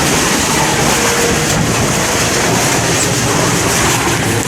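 Steady, loud roar of a violent rainstorm: strong wind with heavy rain pouring down, the wind buffeting the microphone.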